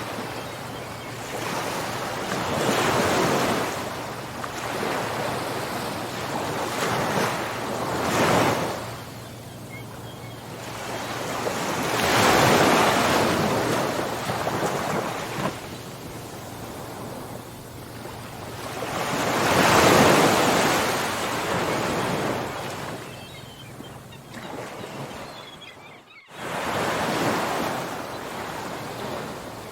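Ocean waves breaking on the shore, the surf swelling and falling away every few seconds, with the loudest breakers about halfway and two-thirds through. Near the end the sound cuts out for an instant, then the surf returns.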